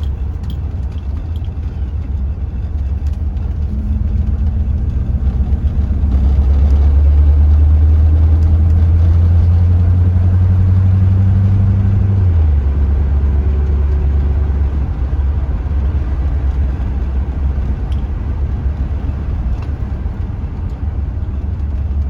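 1982 Corvette's Cross-Fire Injection V8 running under way, a steady low drone. About four seconds in the engine note grows louder and climbs slightly in pitch, holds through about twelve seconds, then drops abruptly and settles back to a steady cruise.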